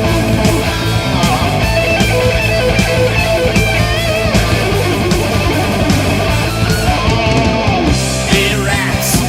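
Heavy metal band playing an instrumental passage: distorted electric guitars over bass and drums, with a lead guitar line bending and wavering in the middle.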